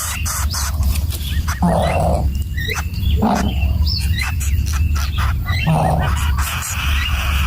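Greater coucal nestlings giving three harsh, noisy calls, with short chirps from other birds and scattered clicks in between.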